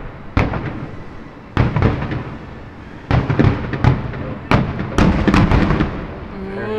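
Aerial fireworks shells bursting in the distance: a series of sharp booms with echoing tails, a second or more apart at first, then several in quick succession from about three seconds in.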